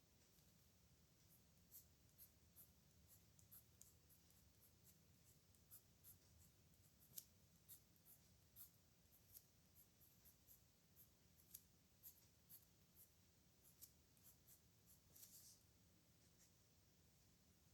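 Pen scratching on paper in many short, quick strokes, faint and irregular, stopping a couple of seconds before the end.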